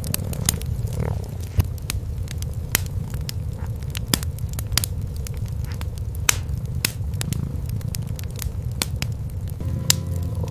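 Cats purring, a steady low rumble, under the irregular sharp crackles and pops of a wood fire in a fireplace.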